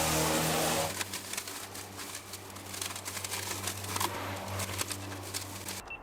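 A pitched, engine-like drone stops abruptly about a second in. It is followed by quieter outdoor sound: a bird, scattered light ticks and rustles, and a low steady hum.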